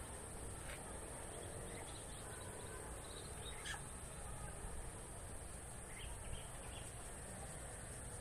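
Quiet outdoor background with a steady high-pitched hiss, broken by a few short, faint bird calls scattered through.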